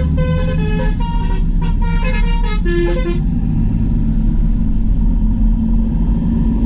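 A musical horn plays a quick tune of short notes over the steady low rumble of passing diesel tractor engines. The tune stops about three seconds in, leaving the engines running.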